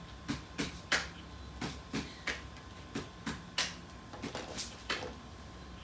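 A beat tapped out by hand: quiet, sharp taps in groups of three, the pattern repeating evenly about every second and a third.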